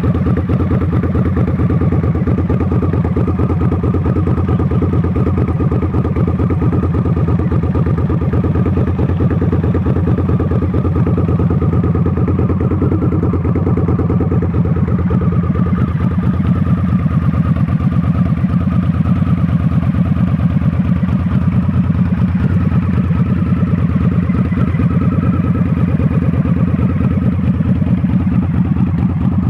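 Harley-Davidson V-Rod Muscle's liquid-cooled Revolution V-twin idling steadily, with an even, rapid exhaust pulse and no revving.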